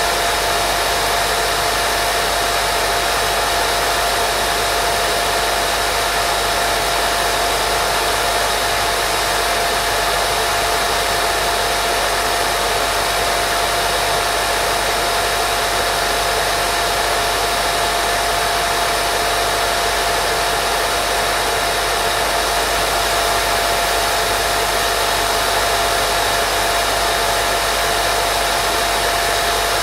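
Steady white noise of a baby-sleep sound track, an even hiss with a faint steady hum-like tone running through it and no change.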